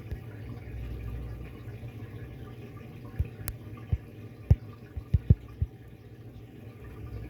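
Electrolux Turbo Economia washing machine running a wash with water moving in the tub over a steady low hum, and a quick run of low clunks about three to six seconds in.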